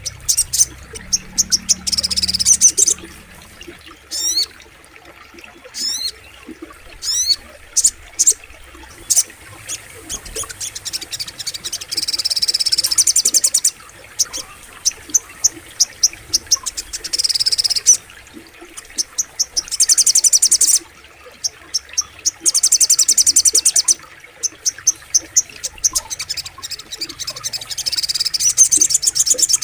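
Sogok ontong (little spiderhunter) singing: high trills of rapidly repeated notes, each a second or two long, again and again, with single sharp chips between them. A faint steady background of insects and flowing water runs under the song.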